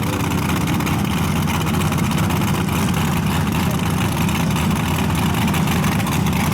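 Front-engine dragster's engine running loud and steady with a rough, pulsing note, holding at a fairly constant speed rather than revving up for a launch.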